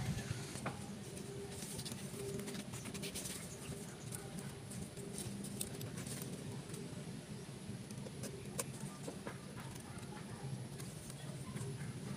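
Birds cooing in the background, short low calls repeating, with faint scattered clicks and rustles from hands working a potted coconut palm seedling.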